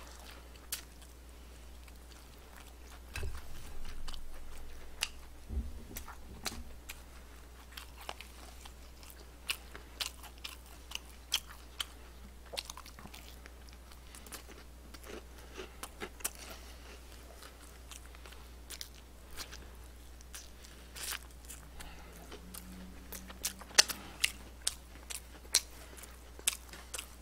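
Close-miked chewing of fried chicken, with sharp crunches and mouth clicks scattered throughout, busiest about three seconds in and again near the end.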